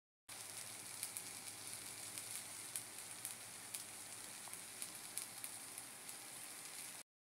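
Fried rice with diced peppers sizzling in a frying pan: a steady high hiss with scattered crackles and pops. It cuts in just after the start and stops abruptly near the end.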